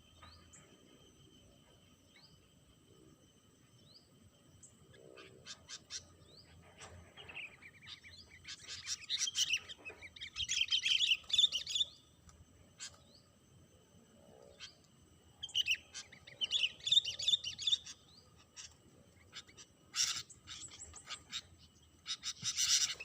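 Sooty-headed bulbul (kutilang) chirping in quick bubbly bouts, two longer runs of a few seconds each with shorter bursts after. A faint steady high insect buzz runs behind.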